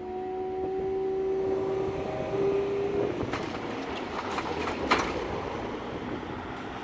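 Class 165 diesel multiple unit's engine running with a steady drone that rises slightly and stops about three seconds in, followed by passing traffic noise and two sharp knocks.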